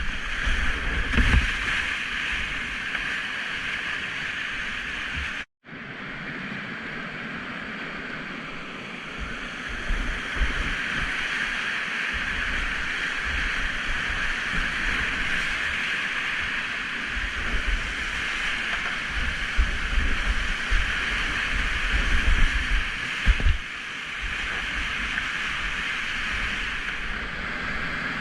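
Steady rush of whitewater in a shallow, rocky river rapid, with irregular low rumbles of wind buffeting the microphone. The sound breaks off for an instant about five and a half seconds in.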